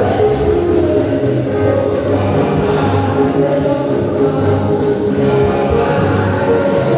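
Choir singing a gospel song over instrumental backing with a repeating bass line.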